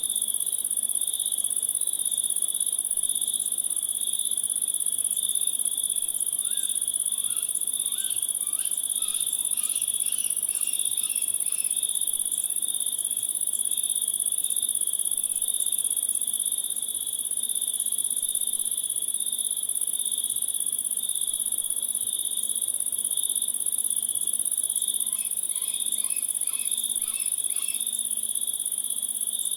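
Crickets trilling in a steady chorus, one very high continuous trill over a lower, pulsing one. About seven seconds in, and again near the end, a run of short, quickly repeated chirps joins for a few seconds.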